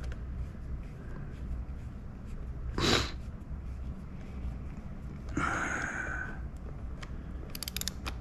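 A short, sharp sniff or snort through the nose about three seconds in, over a steady low hum, with a few quick light clicks near the end.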